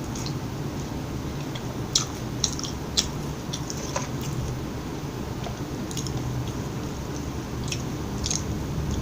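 Close-miked chewing of fast food, with scattered short, wet mouth clicks over a steady low hum.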